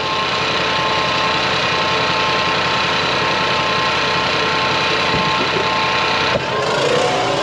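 An engine running steadily at idle, with a faint steady whine over it; it cuts off about six seconds in.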